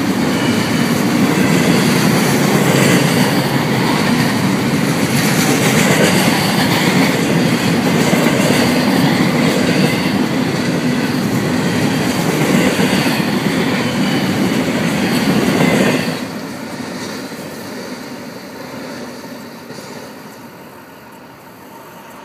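Double-stack intermodal freight train's container cars rolling past on steel wheels, a loud steady rush of rail noise. About sixteen seconds in, the last car goes by and the noise drops off sharply, then fades as the train draws away.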